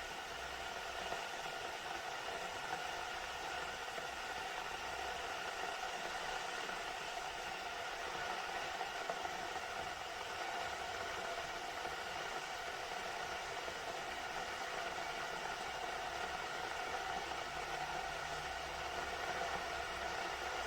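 Glass electric kettle heating water: a steady hiss with a faint hum, slowly growing louder.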